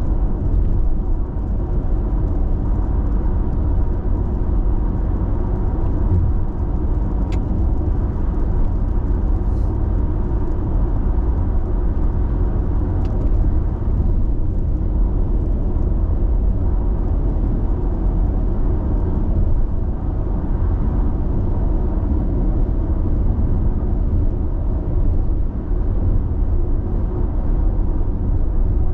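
Steady tyre and road noise with engine hum, heard from inside a car cruising at constant expressway speed: an even low rumble that does not rise or fall.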